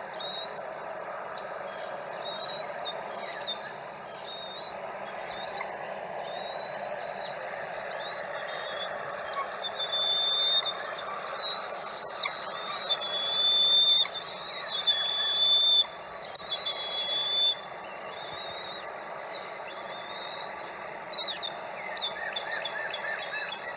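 Bald eagles at the nest giving series of short, high, rising-and-falling chirping calls, most intense in the middle, over a steady background hiss.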